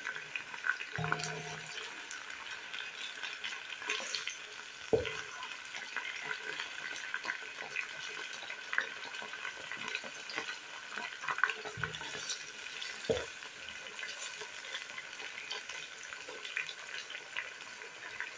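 Chicken pieces and garlic frying in oil in a non-stick pan: a steady sizzle full of small crackles. A few brief dull knocks come as the pieces are moved about.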